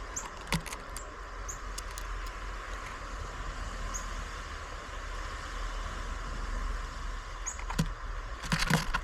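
Outdoor ambience at a birdfeeder: a steady background hiss with faint, short, high bird chirps every second or so, a couple of sharp clicks about half a second in, and a quick run of louder taps near the end.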